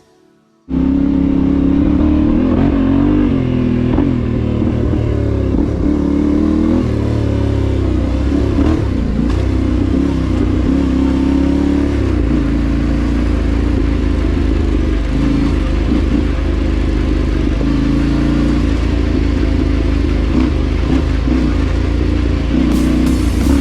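Dual-sport motorcycle engine running under way, starting abruptly about a second in, its pitch rising and falling as the throttle opens and closes and gears change.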